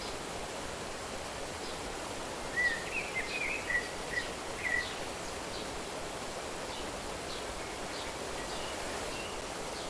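Steady natural outdoor ambience with a small bird chirping a quick run of short calls from about two and a half to five seconds in, and fainter high calls scattered throughout.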